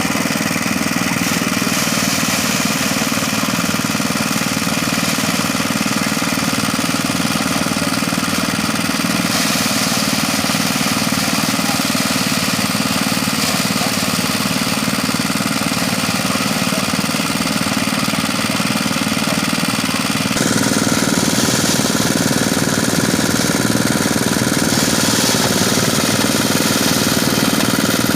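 Engine-driven mini rice thresher running with a steady, dense mechanical rattle. About 20 seconds in, its tone shifts and it grows slightly louder.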